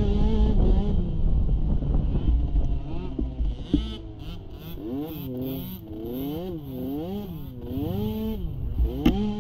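Small youth ATV engine revving up and falling back about once a second, the throttle worked on and off. The first few seconds are a heavier low rumble with wind noise.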